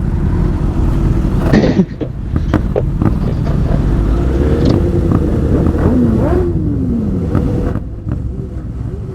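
Sportbike engine running under way, its pitch rising and falling several times as the rider accelerates and eases off. Heavy wind rush on the microphone underneath.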